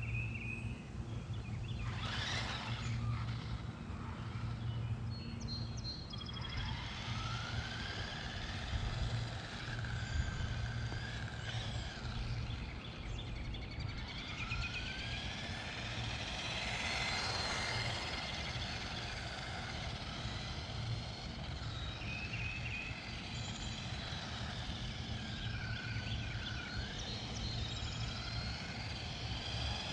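Small electric motor of a 1/18-scale RC monster truck whining as it is driven, the pitch rising and falling again and again as it speeds up and slows down, over a steady low hum.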